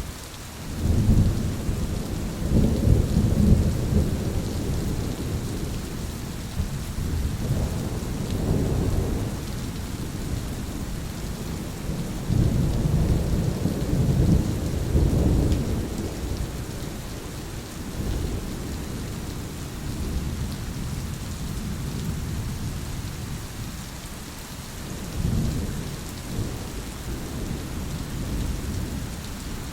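Thunderstorm: steady rain falling, with repeated rolls of thunder rumbling. The loudest rolls come about a second in and again from about twelve to sixteen seconds in.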